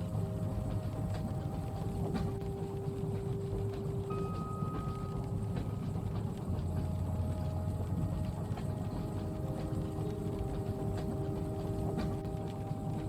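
A train carriage running steadily along the track with a low rumble and faint scattered clicks, while soft held tones come and go over it.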